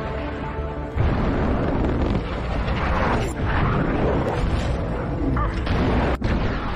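Fighter jet in action: a loud, dense roar with blast-like booms. It jumps louder about a second in and cuts out briefly near the end.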